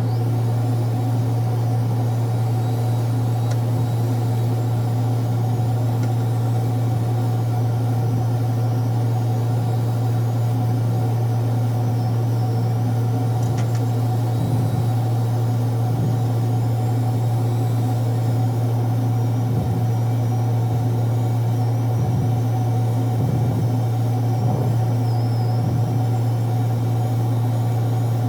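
A steady, unchanging low hum of a running electric machine, with no change in speed or load.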